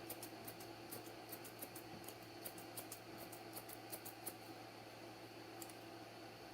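Chunking shears snipping the hair on a dog's ear: faint, crisp snips in quick irregular runs, thinning out after about four seconds, over a steady low hum.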